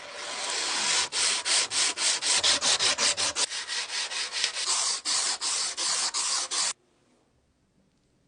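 Rapid back-and-forth sanding strokes on a Zippo lighter's metal case, about four strokes a second, then they stop abruptly.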